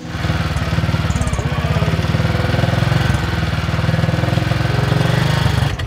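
Old BSA motorcycle engine running steadily with a fast, even beat of firing strokes, then cutting off suddenly near the end.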